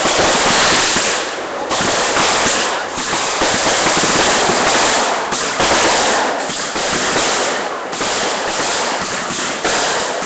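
A barrage of consumer fireworks going off in rapid succession, many bangs and crackles overlapping into a continuous din.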